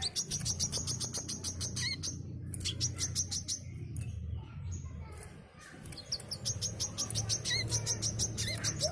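Brown-throated sunbird singing vigorously, in two bouts of rapid, high, evenly repeated notes separated by a pause of a few seconds. A steady low hum runs underneath.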